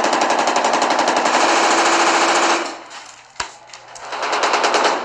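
Automatic gunfire: a long run of rapid, evenly spaced shots that breaks off about two and a half seconds in, a single sharp report about a second later, then firing picking up again near the end.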